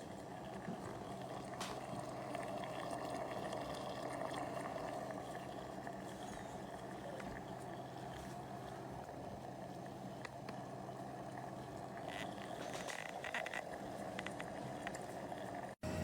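Steady low hum with a soft hiss, with a few faint clicks near the end; it cuts off suddenly at the end.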